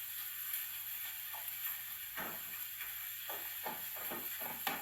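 Onions and garlic frying in a pan, a steady sizzling hiss. Several light knocks from the second second on, the sharpest near the end.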